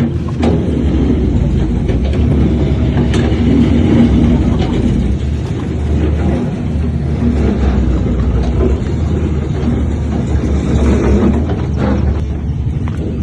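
Heavy diesel engine of earthmoving machinery running steadily under load, with a few scattered knocks.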